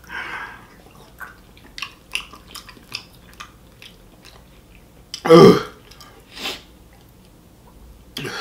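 A man chewing fried chicken with small wet mouth clicks and smacks, then a loud throaty sound that falls in pitch, like a burp or groan, about five seconds in, followed by a short breathy puff, as he reacts to the extreme heat of the chicken.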